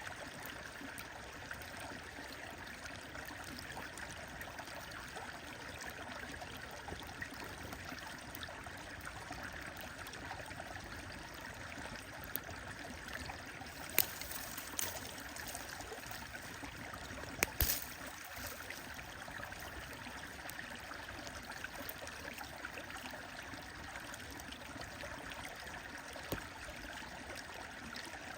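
A stream flowing steadily, with a wood fire crackling now and then, and a few sharp pops clustered about halfway through.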